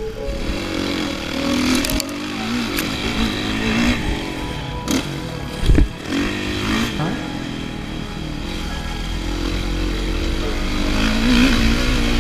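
Dirt bike engine revving up and down on a motocross track, the pitch rising and falling with throttle and gear changes. A sharp knock about six seconds in is the loudest sound.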